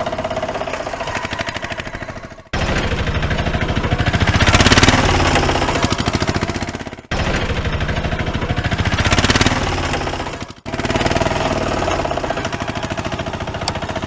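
A small motor of a DIY miniature toy tractor runs with a rapid, even chugging rattle. The sound breaks off abruptly three times and picks straight up again.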